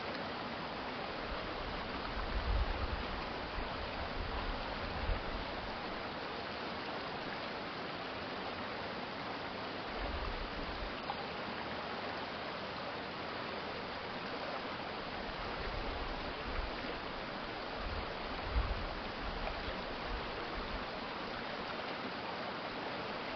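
A city stream flowing steadily, a continuous rushing of water. Low rumbles come and go a few times, the strongest about two and a half seconds in and near the end.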